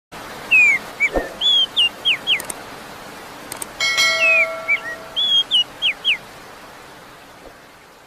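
A songbird singing a phrase of clear whistled notes that slide downward, given twice, over a steady hiss. Just before the second phrase, a couple of clicks and a ringing bell-like chime sound, as the on-screen subscribe bell is tapped.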